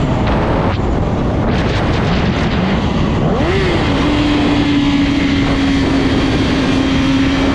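Motorcycle under way, its engine note swelling in a short rev about three and a half seconds in and then holding steady, over a constant loud rush of noise.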